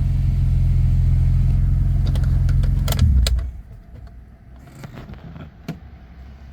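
BMW S54 inline-six, swapped into an E30 and breathing through a custom exhaust, idling steadily. About three seconds in it is switched off: a brief surge, then the engine note dies away. A few light clicks follow.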